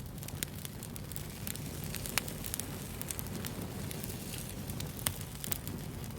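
Wood fire burning, with a steady low rumble and many sharp, irregular crackles and pops.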